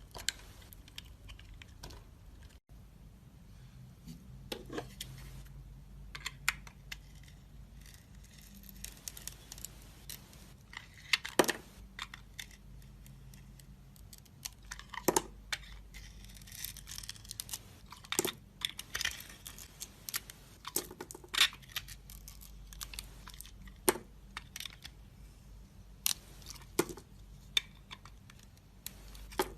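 Dry soap crunching and crackling as it is cut and broken, in irregular crisp snaps of varying loudness.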